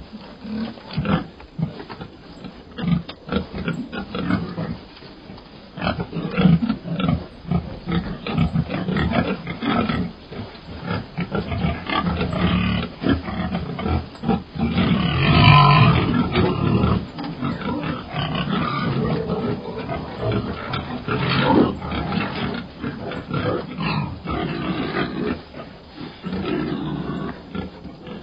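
Piglets grunting in a busy, irregular run of short calls, with a louder, longer call about fifteen seconds in.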